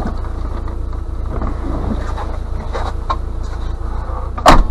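The UAZ Patriot's 2.7-litre, 150 hp petrol engine idling, heard from inside its cab as a steady low rumble. There are a few faint knocks, and one loud sharp thump about four and a half seconds in.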